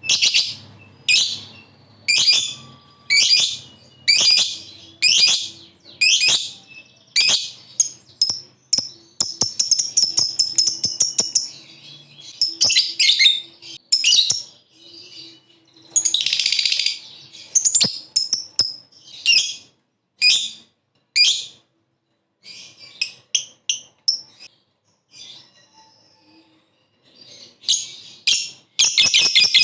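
Lovebird giving sharp, shrill chirps about once a second, broken by rapid chattering trills, the long 'ngekek', around the middle and again near the end.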